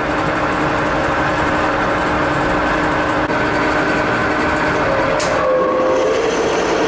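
Metal lathe running steadily, its motor and gearing giving a constant mechanical hum with a few held tones. A short click comes a little after five seconds in, and the tone changes after it.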